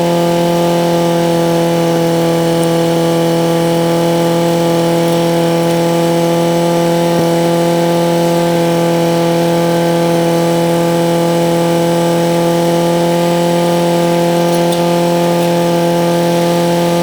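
Tractor running with the Hesston haybine engaged, a steady hum at one constant pitch: a test run of the haybine drive freshly rebuilt with new bearings.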